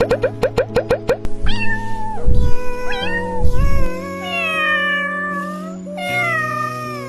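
A cat meowing several times, drawn-out calls that bend up and down in pitch, over background music that opens with a quick run of plucked notes.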